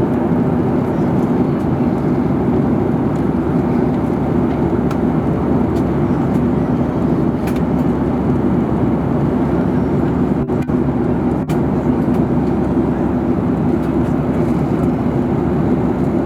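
Airliner cabin noise in flight: a steady, loud hum of engines and rushing air, with two momentary dips in level about ten and eleven seconds in.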